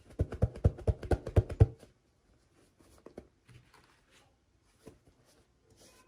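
A quick run of about a dozen clicking taps lasting under two seconds, then a few faint scattered clicks and rustles: hands handling toy packaging.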